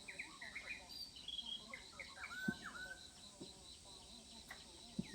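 Small birds chirping and twittering in quick, short notes, with a steady thin high insect buzz behind them and a few sharp clicks.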